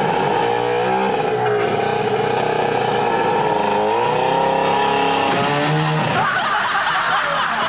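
Car engine revving, its pitch dipping and rising repeatedly, then climbing higher and wavering about six seconds in.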